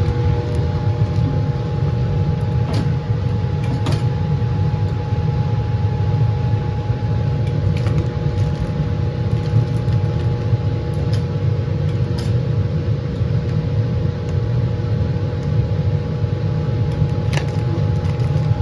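Laminar flow hood's blower running with a steady low roar and a faint even hum, joined by a few faint light clicks.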